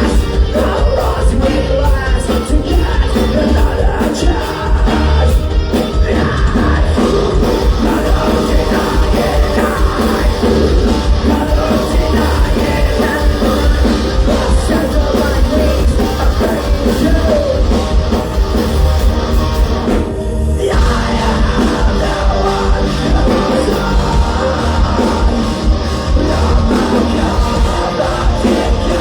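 Live rock band playing loud, with electric guitar, bass and drums and some singing. The guitars and cymbals drop out briefly about two-thirds of the way through, while the low end carries on.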